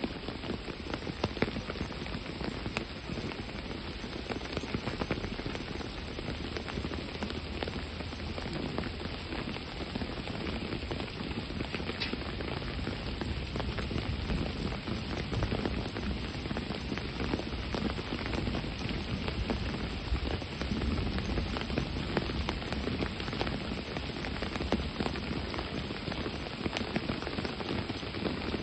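Steady rain falling, a continuous hiss scattered with many small drop ticks.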